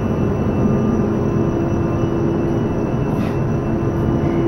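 Steady, loud machinery noise, an engine or motor running continuously, with a steady hum tone coming in near the end.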